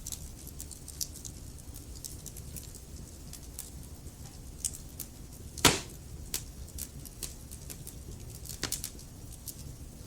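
Wood logs burning in a fireplace: steady crackling with many small sharp snaps over a low rumble of flame, and one loud pop a little past halfway, with a few more snaps close together near the end.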